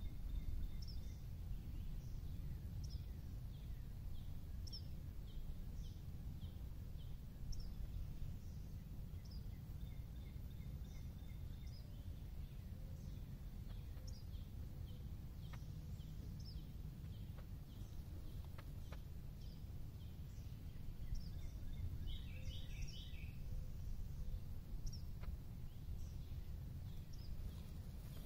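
Birds calling in the trees: short, high, falling chirps about once a second, with a quicker burst of song about three-quarters of the way through, over a steady low rumble.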